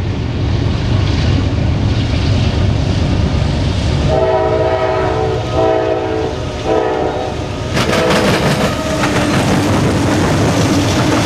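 CSX freight train's diesel locomotives passing with a steady low rumble. About four seconds in the air horn sounds three blasts, each shorter than the one before. From nearly eight seconds in, the wheels of the passing freight cars clatter loudly over the rail joints.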